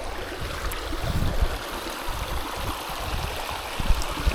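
Small trout stream running over rocks: a steady rush of water.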